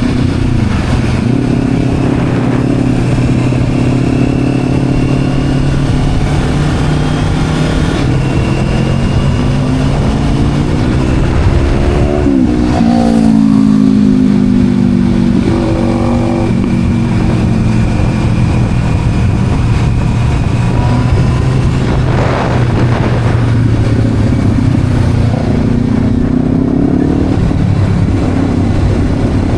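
Motorcycle engine running under way, its pitch climbing to a peak about halfway through and then falling back, with a smaller rise and fall later, over steady road and wind rush.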